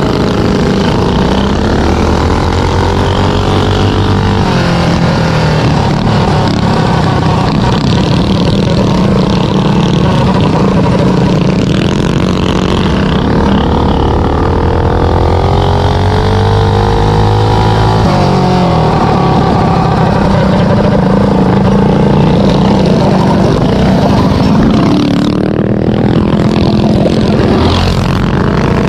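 Several small minibike engines racing together, their pitch rising and falling as they rev and ease off.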